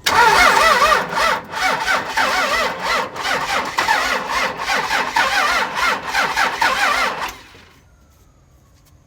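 Starter motor cranking a second-gen Cummins 5.9 L 24-valve inline-six diesel for about seven seconds. Its speed rises and falls with each compression stroke, and the engine does not catch before the cranking stops.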